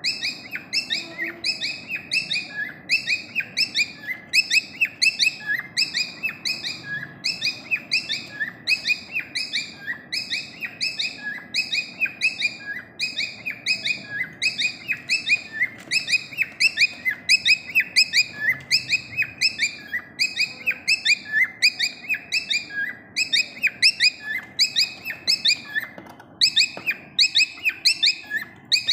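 A small pet parrot chirping steadily, in quick high-pitched bursts of falling chirps that repeat about twice a second, with a short break near the end.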